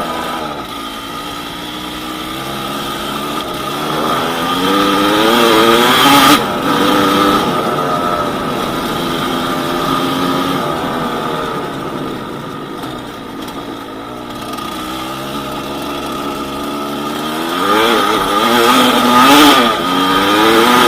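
Yamaha DT200WR's two-stroke single-cylinder engine under way, revving up with a climbing pitch about four seconds in and again near the end, each climb ending in a sudden drop as the throttle is shut or a gear is changed.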